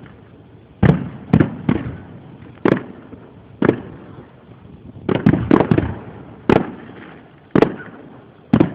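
Fireworks display: aerial shells bursting one after another, about a dozen sharp booms, each trailing off, with a quick cluster of several about five seconds in.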